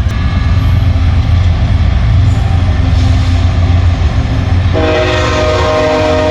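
HO scale model diesel locomotive's sound decoder playing a low, steady engine rumble; about three-quarters of the way in, its multi-note horn sounds and holds.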